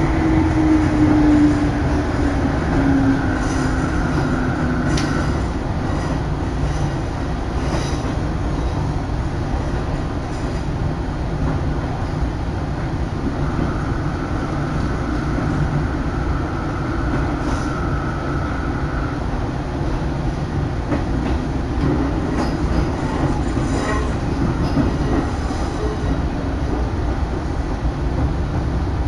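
Daiyuzan Line electric train running, heard from inside the car: a steady low rumble of wheels on rail with scattered short clicks. A whine falls in pitch in the first few seconds, and a thin high tone comes in a few seconds in and again around the middle.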